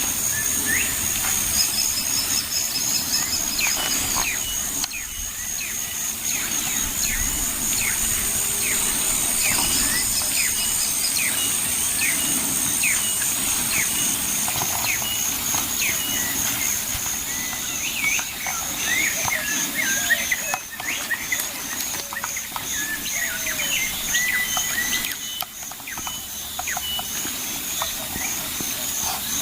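Many short, quick bird chirps over a steady, high-pitched pulsing insect trill, with a couple of brief higher trills early on and near the middle.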